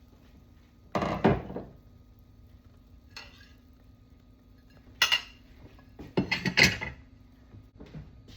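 Kitchen dishes and utensils clattering: a longer rattle about a second in, then several shorter knocks and rattles between about five and seven seconds, over a faint steady hum.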